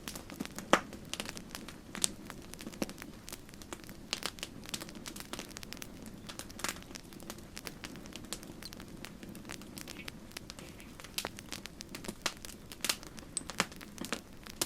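Campfire crackling: irregular sharp pops and snaps of burning wood, the loudest just under a second in, over a steady low rush of flame.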